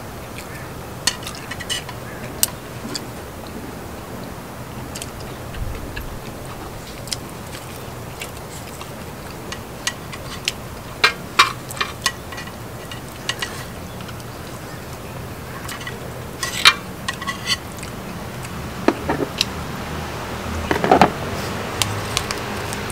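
Utensils clicking and clinking against dishes while eating, in scattered sharp clicks over a steady low hum, with a denser run of clicks at a few points.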